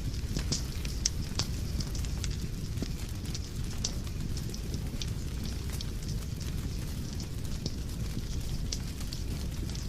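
Wood fire burning in a fireplace, with a steady low rumble and frequent irregular sharp crackles and pops, the loudest about a second in.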